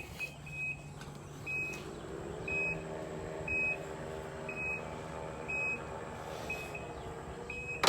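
A car's power liftgate closing down onto stacked tires: its warning beeper chirps about once a second while the liftgate motor runs for several seconds, then winds down near the end.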